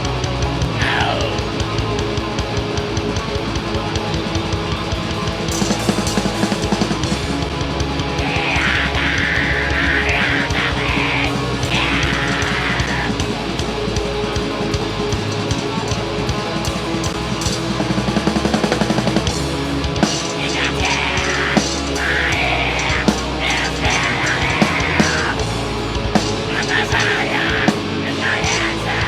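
Heavy metal band playing live: distorted electric guitars over a drum kit.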